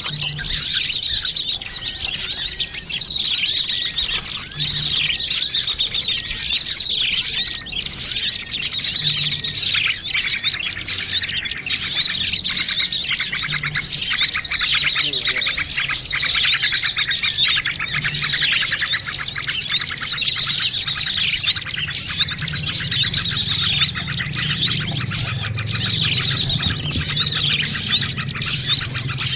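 Dense, continuous chirping and twittering of many small birds calling at once: a bird-lure recording of a noisy small-bird flock, used to attract wild birds.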